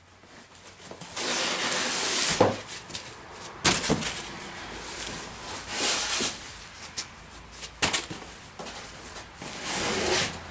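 Generator packaging being handled during unboxing: bouts of rustling and crinkling, broken by a few sharp knocks.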